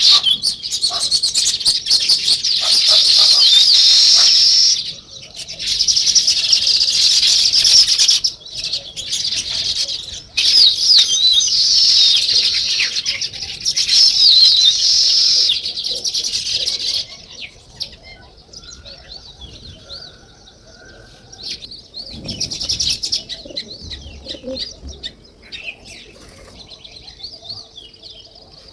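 A flock of small birds chirping in a dense, continuous chorus that thins to scattered, fainter chirps a little past halfway.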